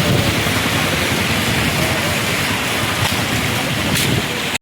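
Heavy rain pouring in strong gusting wind, a dense steady hiss with an unsteady low rumble; it cuts off suddenly near the end.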